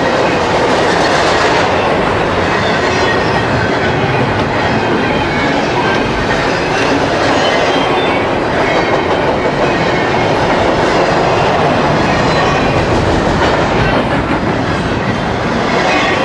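Double-stack intermodal freight train's container-laden well cars rolling past, a steady rumble of steel wheels on rail with clickety-clack over the joints.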